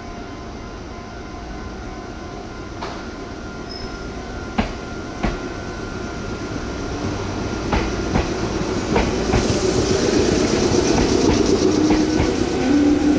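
Meitetsu express train approaching through a station at speed, its wheels clacking over rail joints. It gets steadily louder as it nears, the clacks coming more often in the second half.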